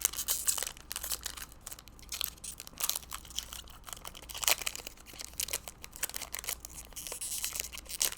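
Crinkling and rustling of trading card pack wrappers and cards being handled and sorted, with irregular clicks and short rustles, a few louder near the start, about halfway and near the end.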